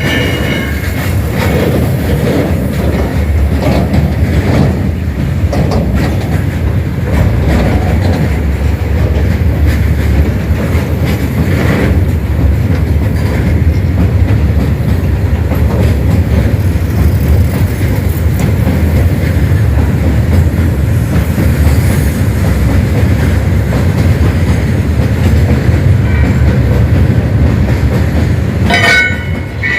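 Freight train rolling past at close range: a steady heavy rumble of wagons with the clickety-clack of wheels over rail joints.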